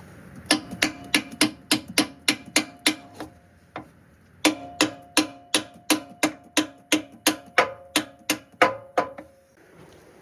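Hammer striking a steel part in steady repeated blows, about three a second, each hit leaving a short metallic ring; two runs of blows with a pause of about a second between them.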